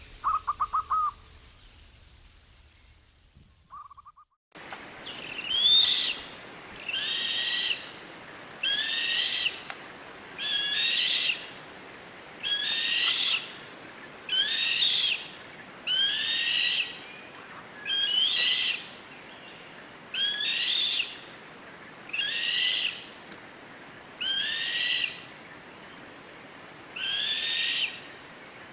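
A bird calling over and over, about a dozen high-pitched calls, each about a second long with a sliding pitch, coming roughly every two seconds. Before this, in the first few seconds, a few short chirps sound over a steady high whine, and then the sound changes abruptly.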